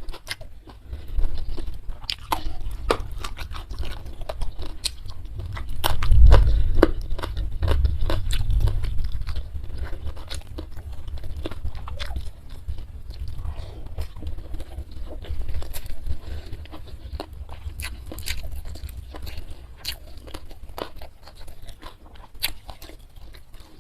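Close-miked person chewing and biting food, with many sharp crunchy clicks over a low, wet mouth thudding that is loudest about six seconds in.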